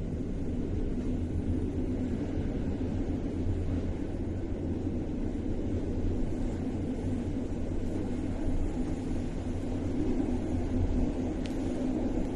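Steady low rumble of a passenger train coach rolling along the track, heard from inside the carriage as the train pulls out of a station. It grows slightly louder near the end.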